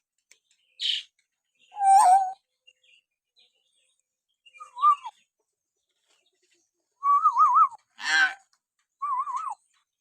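Hill myna calling: a string of short, separate calls, clear warbling whistles mixed with harsh, noisy squawks, about six in all.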